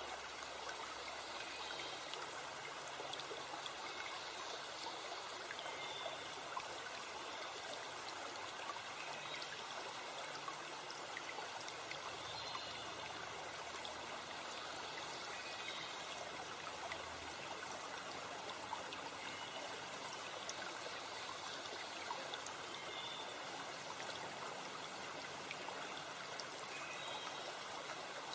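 A forest stream or river running steadily, with faint bird chirps now and then.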